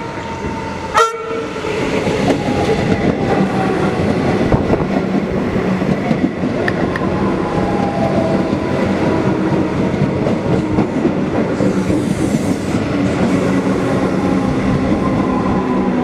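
Metro suburban train giving a short horn toot about a second in, then running through loudly and steadily.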